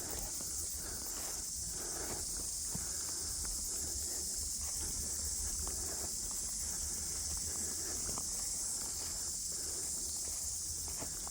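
Footsteps walking outdoors, soft irregular steps over a steady high-pitched hiss and a low rumble of wind on the microphone.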